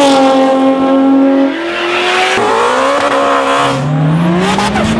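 V8-swapped Toyota Supra drift car's engine revving hard at high rpm. Its pitch holds, sags, then climbs again in the last second or so.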